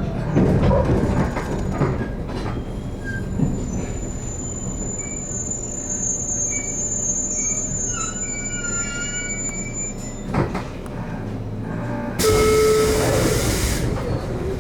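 JR Kyushu 813 series electric train standing with a steady low hum and rumble, and a loud burst of hissing lasting about a second and a half near the end.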